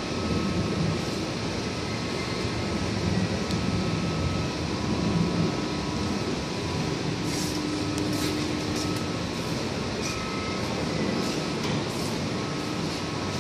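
Cube ice machine running: a steady mechanical hum and whir from its compressor and fans, with a few light clicks in the second half.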